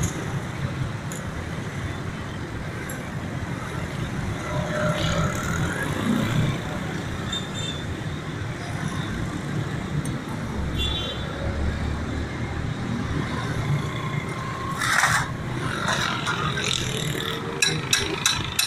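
Steady rumble of road traffic, with a few sharp knocks near the end.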